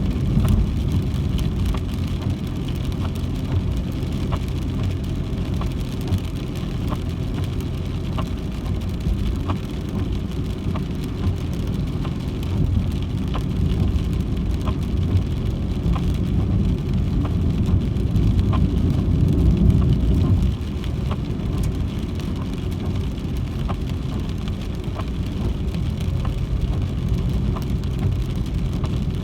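Car cabin noise while driving in rain: a steady low rumble of engine and wet-road tyre noise, with faint regular ticks about once a second. The rumble grows louder around two-thirds of the way through, then drops suddenly.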